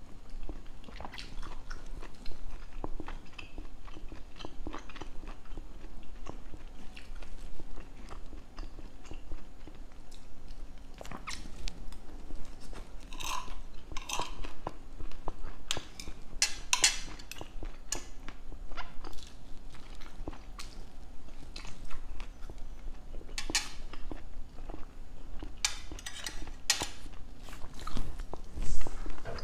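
Close-miked chewing and biting of cooked string beans, with moist mouth clicks throughout. A metal spoon and fork scrape and clink on a ceramic plate, and near the end the utensils are set down on the plate.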